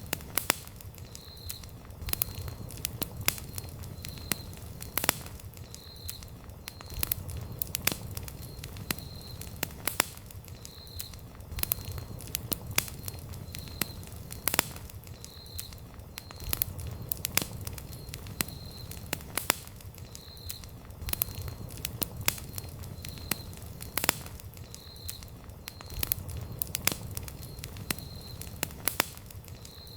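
Wood campfire burning steadily, crackling with frequent sharp pops over a low rumble of flame. A faint high chirp repeats evenly about once a second underneath.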